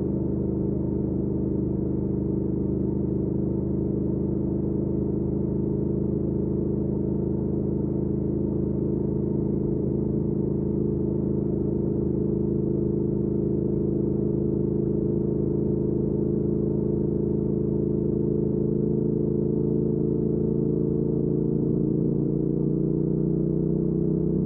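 2019 Triumph Speed Twin's 1200 cc parallel-twin engine running at a steady cruising speed through a Weslake Shorty Pro exhaust, its pitch rising a little near the end.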